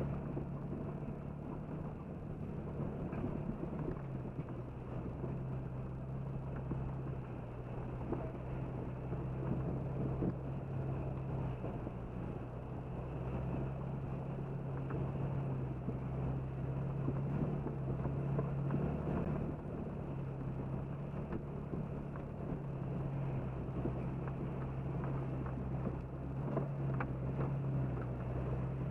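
Jeep Cherokee XJ engine running steadily at low speed as the Jeep drives through running floodwater, with water splashing around it and scattered knocks.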